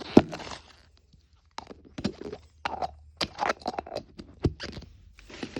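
Plastic packaging being handled and opened: a Mini Brands capsule ball and its wrappers crinkling, scraping and clicking in irregular bursts. There is a sharp click just after the start and a short pause before the crinkling picks up.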